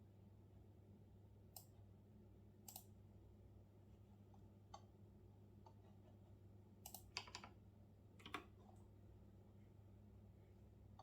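Scattered computer keyboard keystrokes, a few single taps and then a short cluster of presses about seven to eight seconds in, over a faint steady low hum.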